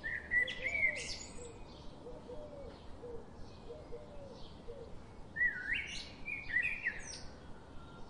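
Birds chirping: a burst of high, sweeping chirps right at the start and another about five and a half seconds in, with softer, lower calls in between.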